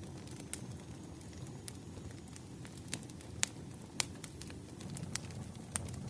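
Campfire burning: a steady low rumble of flames with irregular sharp crackles and pops from the wood. The two loudest pops come about three and a half and four seconds in.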